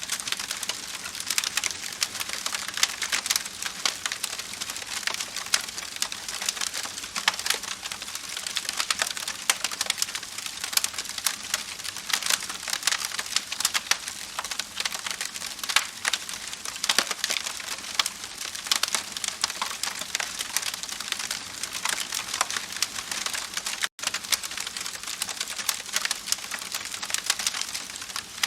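Campfire burning with dense, continuous crackling and popping of wood, many sharp snaps a second over a soft hiss of flame. The sound drops out for an instant late on.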